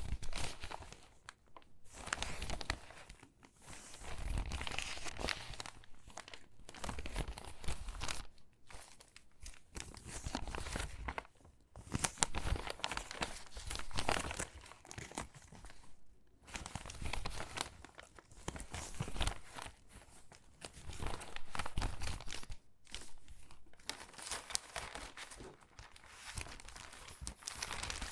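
Crinkly, water-damaged magazine pages being handled and shuffled, rustling and crackling in irregular bursts with brief pauses between.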